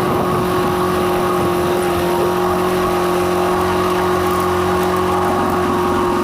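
Engine of the farm machinery spreading chicken litter, running steadily at constant speed with a steady droning hum.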